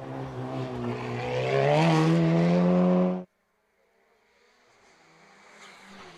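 Hillclimb race car engine accelerating hard, loud, with its pitch rising, then cutting off suddenly about three seconds in. Another car's engine follows, much fainter and slowly growing louder.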